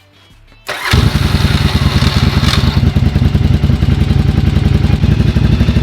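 Yamaha Virago XV750's air-cooled V-twin engine running steadily after coming in suddenly about a second in, a rapid even beat of firing pulses: the bike running again after its carburettor floats were readjusted.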